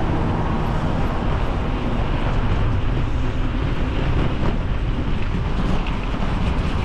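Wind buffeting the microphone of a camera riding on a moving mountain bike: a loud, steady rumbling rush.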